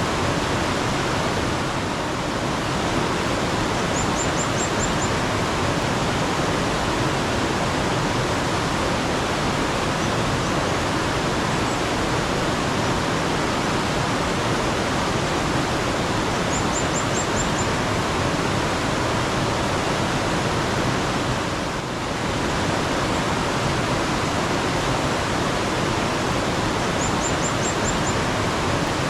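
Steady rush of flowing mountain water, with a bird giving a quick run of about five high chirps three times, roughly ten seconds apart.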